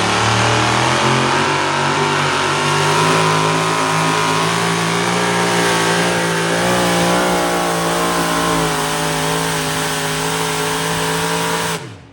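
Pulling truck's engine at full throttle, dragging the weight sled down the track: a loud, sustained engine note that holds its pitch with a slight waver midway, then cuts off suddenly near the end.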